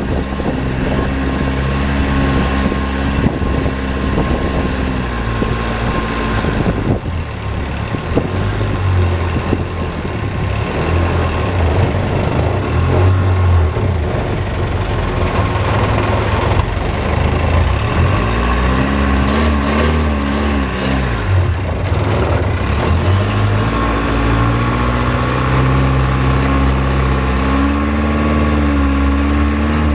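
Motorboat engine running loud and steady, its pitch climbing and falling a few times as the throttle is opened and eased, over a constant rush of water and wind.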